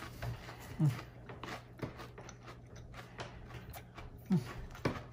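A person chewing a bite of breaded snakehead fish nugget, with small wet clicks of the mouth, and two short hums partway through.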